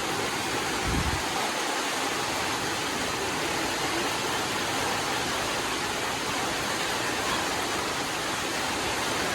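Steady rain falling, an even, continuous hiss, with a brief low thump about a second in.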